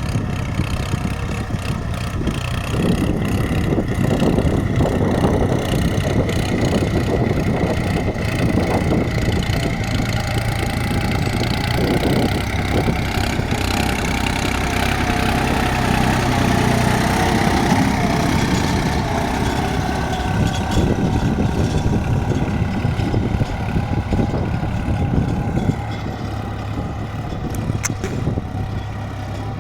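New Holland tractor's diesel engine running steadily under load as it pulls a cultivator through a flooded paddy field, a little quieter near the end.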